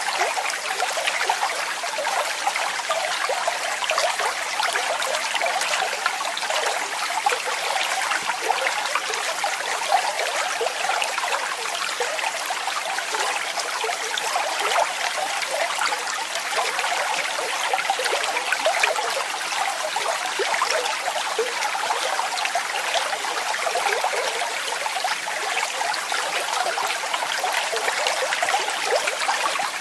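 Waterfall: falling water splashing steadily, an even rush dotted with many small splashes.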